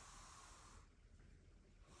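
Near silence: only a faint, steady hiss, which dips briefly about a second in.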